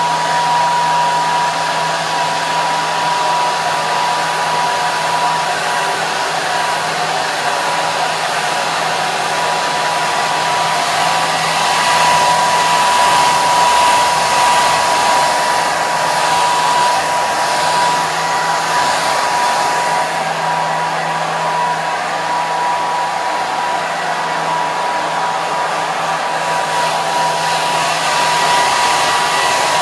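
Hair dryer running steadily on one setting: a continuous rush of air with a steady motor whine and a low hum.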